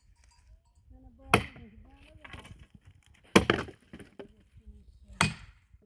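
Dry firewood cracking under three sharp strikes, about two seconds apart, the middle one loudest.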